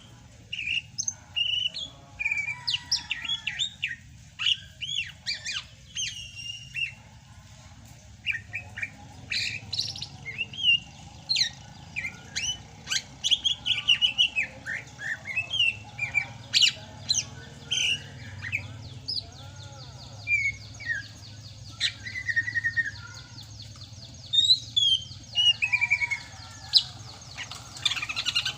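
Greater green leafbird (Sumatran cucak hijau) singing a long, varied run of rapid chirps, sweeping whistles and trills.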